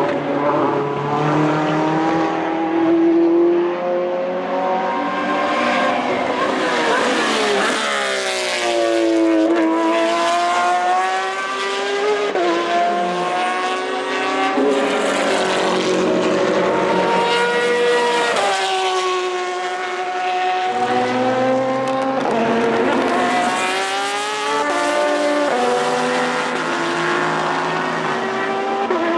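Porsche 911 RSR GTE's 4.0-litre flat-six with open, centre-mounted exhaust at racing speed on track, its pitch climbing and dropping again and again through gear changes and passes. At times a second car's engine overlaps, its pitch crossing the first.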